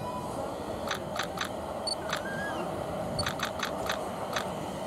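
A train approaching along the track, heard as a steady low rumble, with a scattered run of light sharp clicks over it.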